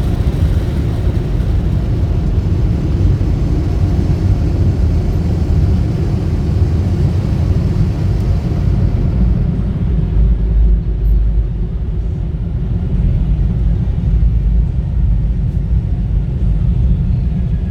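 Steady low rumble of car-wash machinery heard from inside the car, with a hiss that fades out about nine seconds in.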